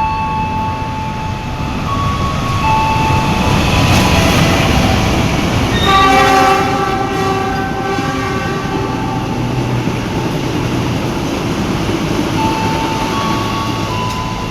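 Train passing through a station without stopping, its rumble and hiss swelling to a peak, with the locomotive horn sounding about six seconds in for roughly two seconds. Short melodic tone notes play near the start and again near the end.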